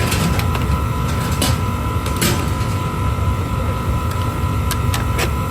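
Workshop machinery running steadily with a low rumble and a steady whine, with a few sharp metal clicks and knocks.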